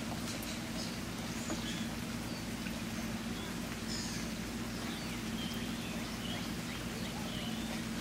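Birds chirping, with short high calls scattered throughout, over a steady bed of noise and a low, constant hum.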